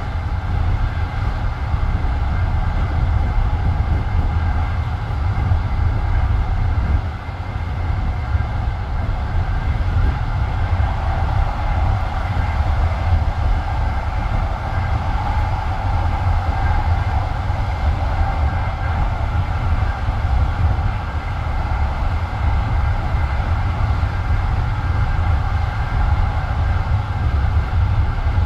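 Passenger railway carriage running along the track, heard from inside: a steady heavy rumble of the wheels on the rails, with a band of higher rail noise above it.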